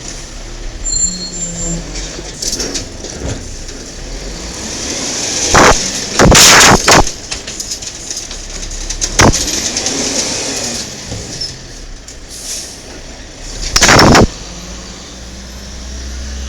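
1995 Peterbilt 310 garbage truck with an Amrep Octo automated side-loader body at work on a collection route: the diesel engine runs under a series of very loud sudden noises. There is a short one about five and a half seconds in, a longer one from about six to seven seconds, another near nine seconds and a last one around fourteen seconds.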